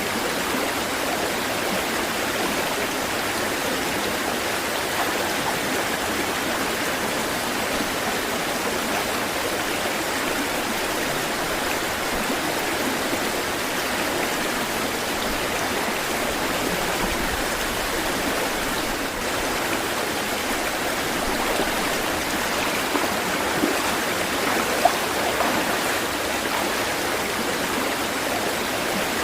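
Flowing water, as of a stream running over rocks: a steady, even rush without the rise and fall of waves. One brief sharper click sounds about 25 seconds in.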